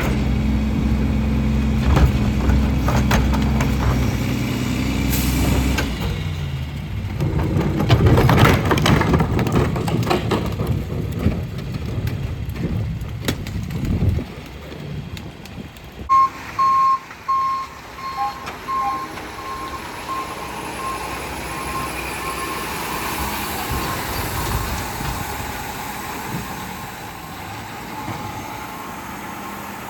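Garbage truck's diesel engine running, with a loud burst of rushing noise about eight seconds in. From about halfway its reversing alarm beeps steadily, one high tone repeating.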